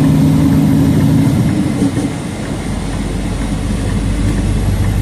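Semi-truck diesel engine pulling a heavy step-deck load, heard from inside the cab: a steady engine note that changes about two seconds in, dropping to a deeper low rumble.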